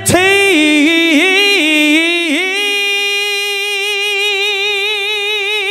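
A man singing one long held note unaccompanied, with a few quick vocal runs in the first two seconds, then sustained with vibrato.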